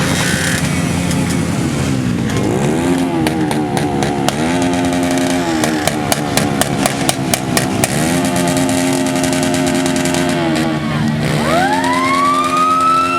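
Motorcycle engines revving again and again, their pitch rising and falling, with sharp pops scattered through. Near the end a siren winds up in pitch and holds a steady wail.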